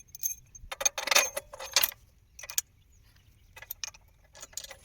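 Metal parts clinking and rattling in several short, irregular bursts as they are handled, typical of assembling a machine.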